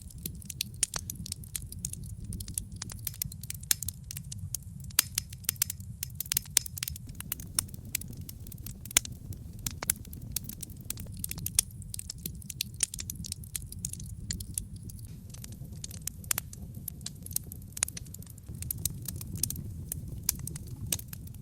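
Wood logs burning in a brick fireplace: a steady low rumble of the flames with frequent sharp crackles and pops scattered irregularly throughout.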